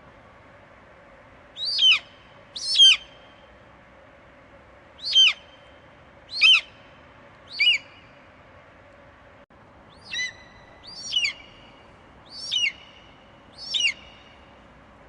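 Eagle screeching: nine short, shrill calls, each sliding sharply down in pitch, coming in loose groups over a faint steady background hiss.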